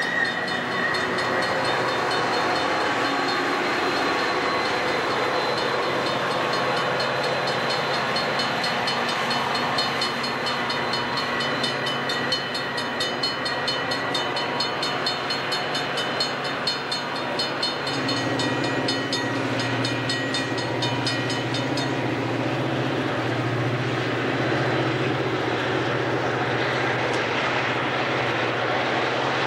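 Metra bilevel commuter coaches rolling past with steady wheel-on-rail noise and a brief high wheel whine at the start. About two-thirds of the way through, a diesel locomotive's low engine drone comes in as a Metra F40PH approaches.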